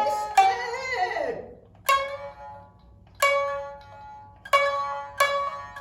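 Shinnai-bushi jōruri chanting and shamisen: a drawn-out sung phrase bends in pitch over shamisen plucks and trails off about a second and a half in. Then single shamisen notes are struck sparsely, each ringing and fading before the next.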